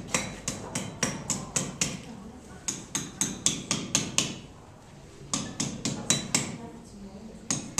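Blacksmith's hand hammer striking red-hot iron on an anvil in quick runs of blows, about four to five a second, with brief pauses between the runs.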